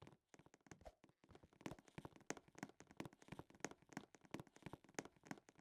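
Near silence with faint, irregular clicks and taps, several a second.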